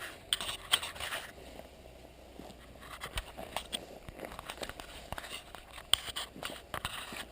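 Irregular knocks, clicks and scraping of objects rubbing and bumping against each other in a washing machine drum, with a few louder clusters near the start and again near the end.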